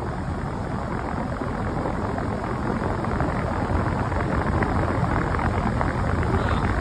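Outdoor heat pump unit running in cooling mode: its fan blows a steady rush of air at the microphone over a low hum.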